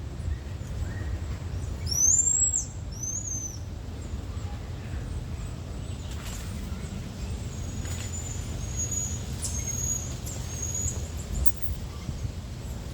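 Marmosets calling: two arching high-pitched squeaks about two seconds in, then a run of short high chirps later on, over a steady low rumble.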